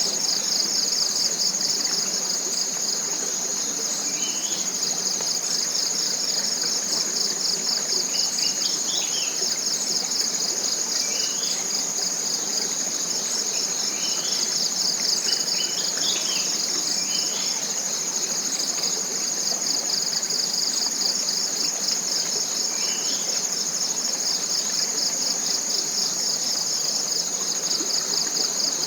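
Steady high-pitched chorus of forest insects, rapidly pulsing, with short faint chirps scattered through it over a soft even hiss.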